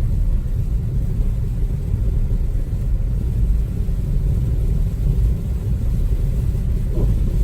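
Low, steady road and tyre rumble inside the cabin of a 2014 Chevrolet Spark EV under way.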